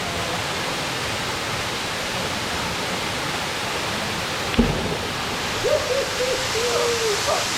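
Waterfall pouring into a pool, a steady rushing hiss, with one sudden thump about halfway through and a short wavering call shortly after.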